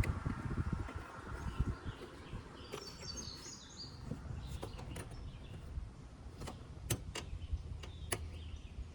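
Scattered sharp plastic clicks and taps as a bumper trim panel is fitted and its push-in grommets are pressed home, over a low steady rumble. A brief high chirping sound comes about three seconds in.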